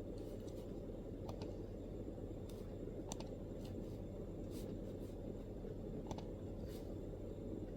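MacBook keyboard keys pressed now and then: scattered single keystrokes, roughly one a second at uneven spacing rather than a steady run of typing. Under them is a steady low room hum.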